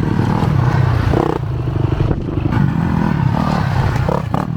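Dirt bike engine running loudly.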